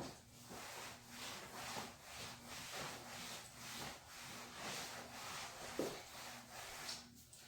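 Fabric of a goose-down sleeping bag rustling and rubbing as it is unrolled and spread out, in soft repeated swishes about twice a second.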